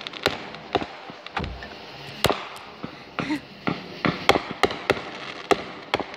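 Aerial fireworks bursting: a string of sharp bangs and pops at irregular intervals, about three a second, the loudest about four seconds in.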